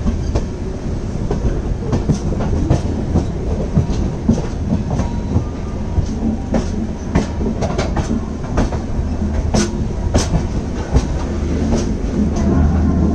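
Double-decker passenger train running, heard from on board: a steady low rumble of the coaches with irregular sharp clacks as the wheels pass over rail joints, while the train nears Bengaluru station.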